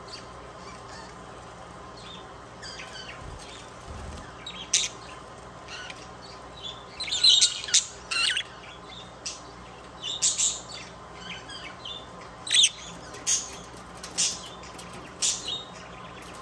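Budgerigar chirps and squawks in short, sharp calls, sparse at first and coming every half second to a second from about five seconds in.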